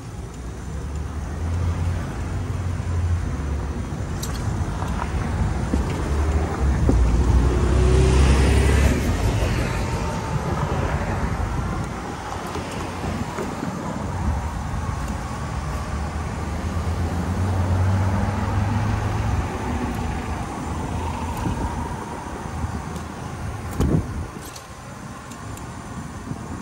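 City street traffic: cars passing close by with engine and tyre noise, several swelling and fading, the loudest about eight seconds in. A short knock comes near the end.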